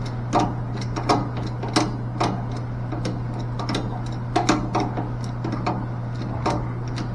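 Irregular metallic clicks and taps of hand tools working a check stop loose on a mixing valve, a click roughly every half second, over a steady low hum.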